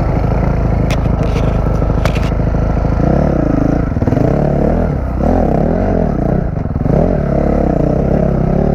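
Honda CRF450 dirt bike's four-stroke single-cylinder engine running hard, its revs rising and falling over and over from about three seconds in as the throttle is worked. A few sharp clicks and scrapes come about one and two seconds in.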